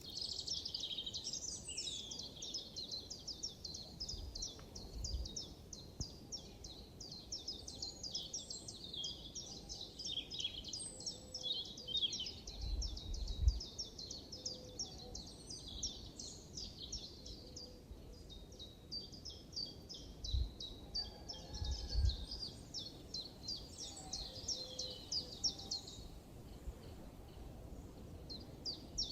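Songbirds chirping in a dense, rapid run of high twittering notes that breaks off near the end, over a soft outdoor hush. A few brief low thumps, the loudest about halfway through.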